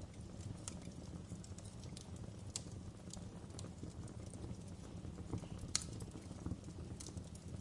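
Wood fire crackling in a fireplace: a steady low rumble of burning logs with irregular sharp pops and snaps, one louder snap a little after halfway.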